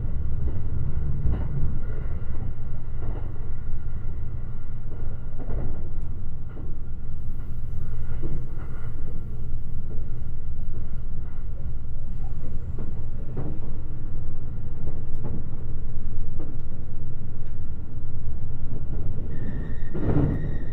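Electric express train heard from inside the passenger car while running, with a steady low rumble and irregular clicks and knocks from the wheels over the track. Near the end a louder knock comes and a high steady tone starts.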